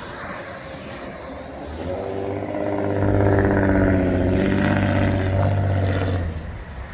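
A motor vehicle's engine running, rising about two seconds in to a loud, steady low hum, then fading away shortly before the end.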